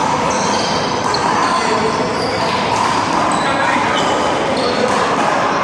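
Indistinct chatter of people around a handball court over steady background noise, with a couple of faint handball hits.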